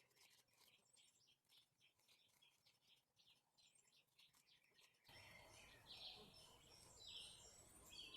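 Near silence with faint birdsong: many short, high chirps. About five seconds in, the background hiss steps up and a few louder chirps follow.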